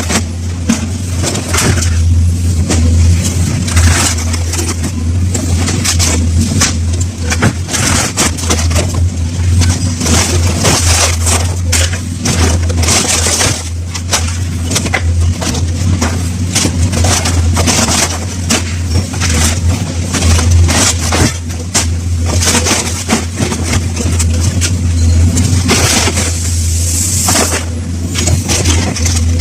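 A heavy scrap-handling machine's engine runs steadily under repeated, irregular crunching and clanking of scrap car bodies being crushed and torn apart.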